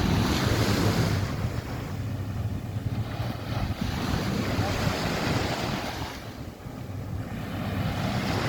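Sea surf washing on a beach, with wind rumbling on the microphone. The wash swells and ebbs, easing off briefly about a second and a half in and again about six and a half seconds in.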